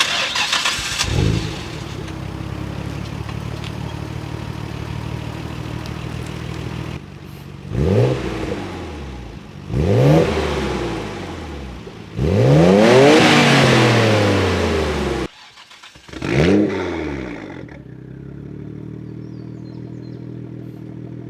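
Nissan Skyline R32 GT-R's twin-turbo RB26 straight-six, straight-piped through a Tomei titanium header-back exhaust and test pipe, running steadily and then revved four times. The third rev is held longest and is the loudest, and the engine settles back between revs.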